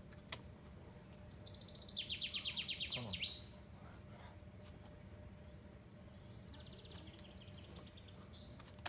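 A songbird sings a rapid, loud trill of quick repeated notes for about two seconds, starting about a second and a half in, then a fainter trill near the end, over a steady low background rumble.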